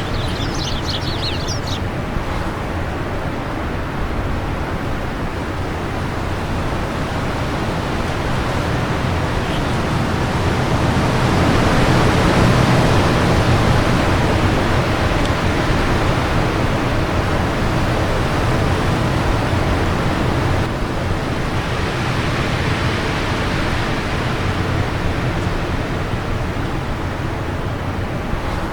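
Wind blowing in a steady rush, swelling into a stronger gust about halfway through and easing off again. A few bird chirps sound in the first couple of seconds.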